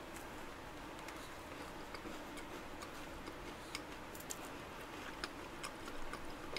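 A person chewing a bitten macaron close to the microphone: faint, irregular soft clicks and mouth sounds over a steady low room hum.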